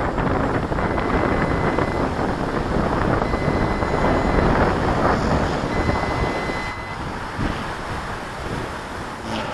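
Strong wind buffeting the microphone with a heavy low rumble, easing somewhat about seven seconds in. A faint high steady whine comes and goes through it.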